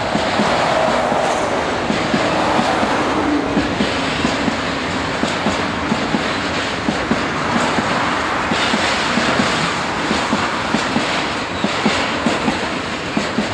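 Train passing close by, wheels clacking steadily over rail joints and switches with a dense run of knocks, over a continuous rumble of wheels on rail.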